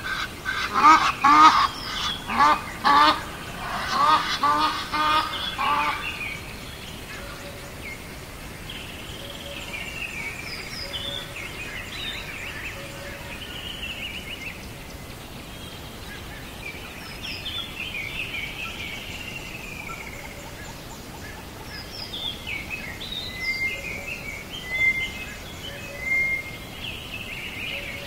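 Birds calling: a rapid run of loud, repeated calls for about the first six seconds, then quieter scattered chirps and calls.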